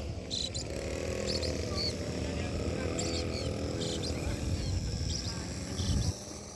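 Short, high bird chirps over a steady low outdoor rumble, with faint distant voices; the rumble drops away sharply near the end.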